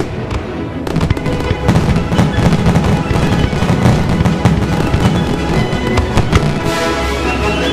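Fireworks shells bursting and crackling in rapid, overlapping succession, with music playing underneath.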